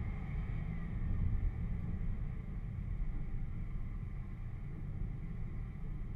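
A 4x4's engine running steadily while the vehicle drives slowly over a dirt off-road course, heard as an even low rumble.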